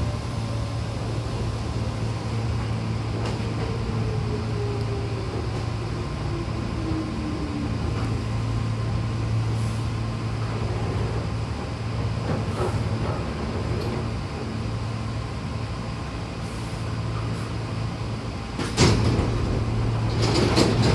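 Commuter train running with a steady low hum and a falling whine as it slows to a stop. Near the end its sliding passenger doors open with a sudden loud clatter, and there is more door noise just after.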